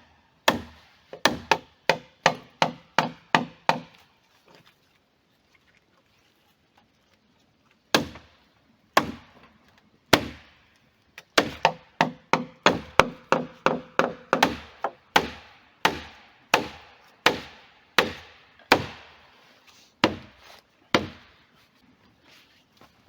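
Rapid series of hand-tool blows on wood, about two or three a second, each with a short ring. It breaks off for about four seconds after the first few seconds, then resumes in a longer run.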